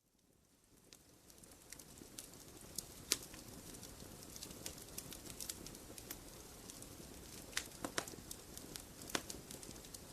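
Wood fire crackling in a fireplace, fading in over the first two seconds: a steady low rumble with scattered sharp pops, the loudest about three seconds in and a cluster near the end.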